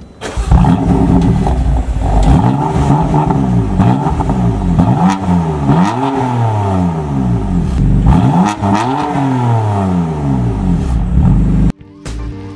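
A 2020 BMW M4's twin-turbo inline-six starts with a sudden loud flare, then is revved repeatedly through the quad M exhaust, its note rising and falling several times. The sound cuts off suddenly near the end.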